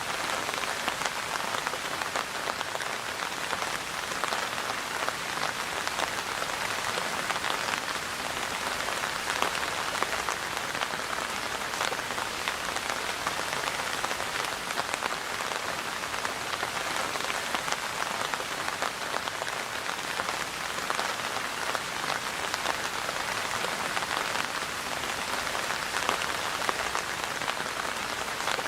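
Steady rain falling and pattering on a surface, a dense even hiss of many drops with no let-up.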